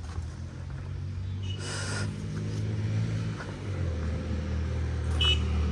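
Motor vehicle engine rumbling steadily and growing louder, with two brief high-pitched chirps, one about two seconds in and one near the end.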